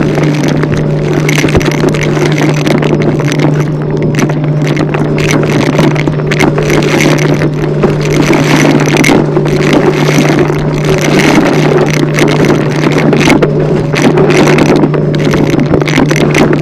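Vacuum cleaner running loudly and steadily: a constant low motor hum under a rush of airflow, swelling slightly every second or two.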